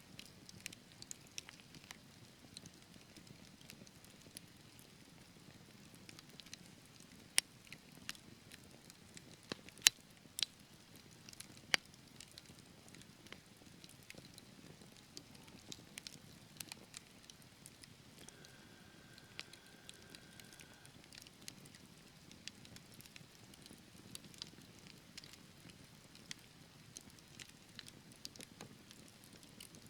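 Wood fire burning in a fireplace: sharp crackles and pops of burning logs over a soft low rush of flame, with a few louder pops about a third of the way in. A faint thin whistle sounds for a couple of seconds past the middle.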